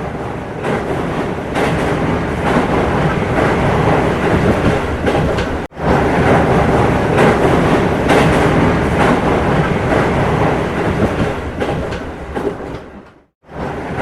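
A train running on rails with a steady clattering rattle of wheels over the track. The sound cuts out abruptly about six seconds in and again near the end.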